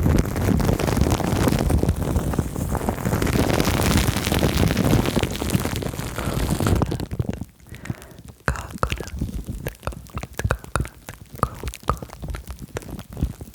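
Close-miked ASMR triggers from a plastic-film-and-foam combo: a dense rustling and scrunching right on the microphone, with a heavy low rumble, for about seven seconds. It then thins out into scattered crackles and clicks.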